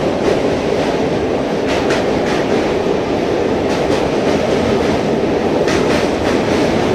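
Train running across a steel truss bridge, heard from an open carriage door: a loud, steady rumble of wheels on rails, with pairs of sharp wheel clacks about every two seconds.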